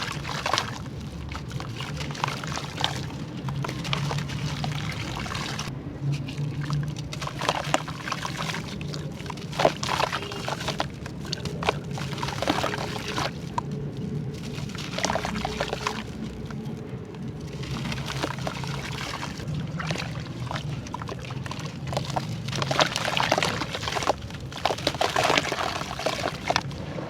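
Pieces of charcoal being dipped in water and crumbled: wet crackling and crunching in irregular clusters, with water pouring and trickling. A steady low hum runs underneath.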